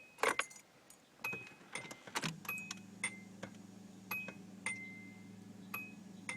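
Car keys jangling with light clicks and short metallic pings, as at the ignition. About two seconds in, a steady low hum comes on with the key turned to on, before the SR20DET is cranked.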